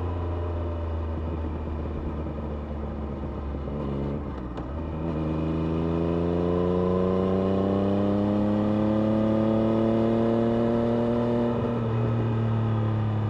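Triumph Street Triple RS's 765 cc inline-three engine heard on board at low revs. The throttle eases off about four seconds in, then the pitch rises slowly and evenly under gentle acceleration, easing off slightly near the end.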